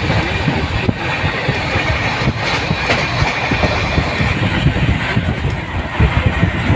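Poorva Express train running on the track: a loud, steady rumble with an irregular rattle.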